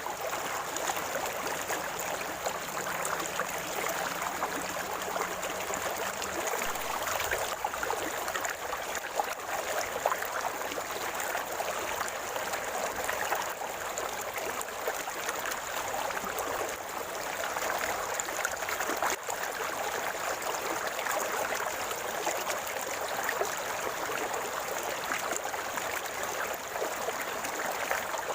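River water flowing with a steady gurgling rush.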